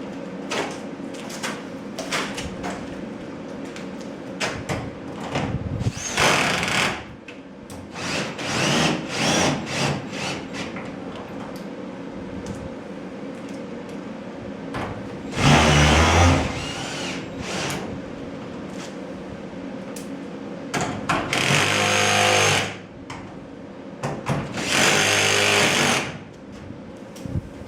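Power screwdriver driving screws into garage door hardware in about five short bursts, the loudest about halfway through, with light metal knocks and clicks in between.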